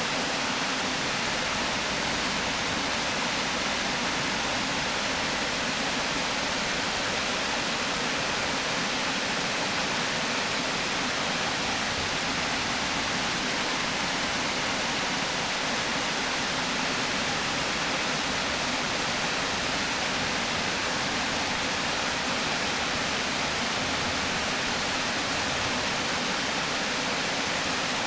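River water pouring steadily over a weir, a constant hiss-like rush.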